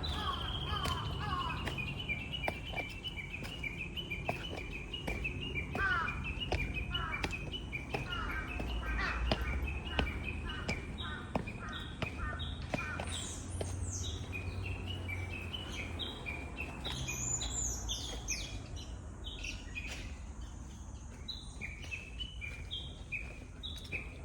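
Small songbirds singing and calling in quick runs of short, repeated high notes, several voices overlapping. Under them are faint regular footfalls and a low rumble on the microphone.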